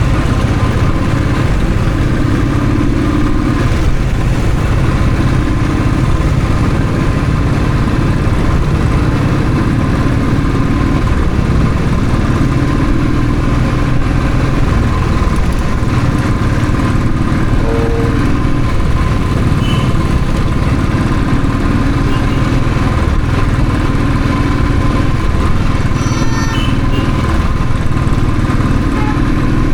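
Royal Enfield Thunderbird's single-cylinder engine running steadily on the move. A short high-pitched sound comes in near the end.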